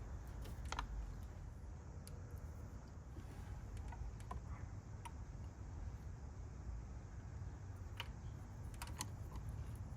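Scattered, irregular small clicks and taps of hand tools and parts being handled during a spark plug change, over a low steady rumble.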